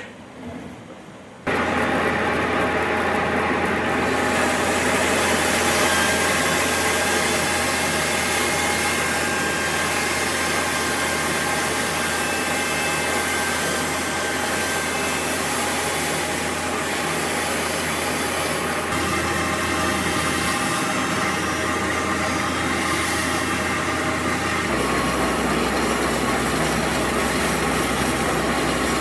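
A woodworking power tool's motor running steadily, a loud even whir with a low hum. It starts abruptly about a second and a half in, and its low hum shifts slightly near the end.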